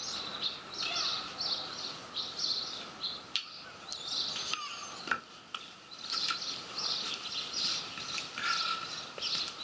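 Small songbirds chirping in short repeated phrases, over steady background noise, with a few sharp clicks about three to five seconds in.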